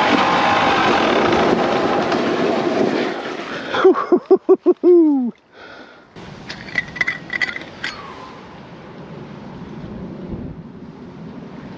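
Beta 300RR two-stroke enduro engine running on the move with wind noise, then its pitch falls in a few pulses until it cuts out about five seconds in. After that come only faint clicks and handling noise.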